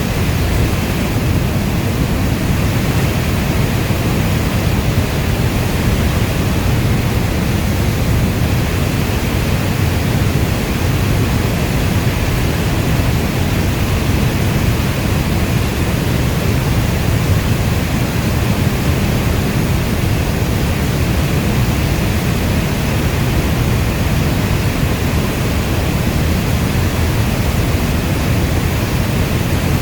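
Steady heavy rainfall: a dense, even rush of rain, deepest in the low end, with no change throughout.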